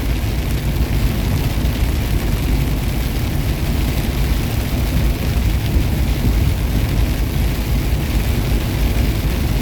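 Steady low rumble of a semi truck's engine and road noise, heard from inside the cab while driving.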